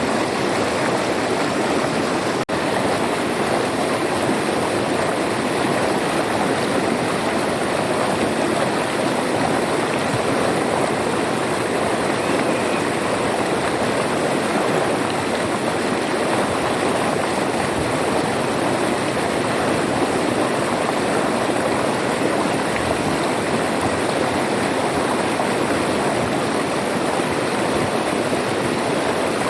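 River water flowing and rushing steadily over its bed, an even continuous noise, with a momentary dropout about two and a half seconds in.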